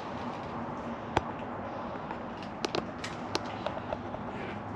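Footsteps and scuffs on the floor of a concrete storm drain: a handful of sharp taps and clicks, one a little after a second in and several close together near the middle, over a steady noisy background.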